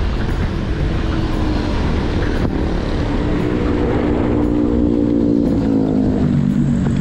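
A motor vehicle's engine passing close by over a steady rumble of wind and road noise from a moving bicycle. The engine tone comes in about halfway through and drops in pitch near the end as it goes by.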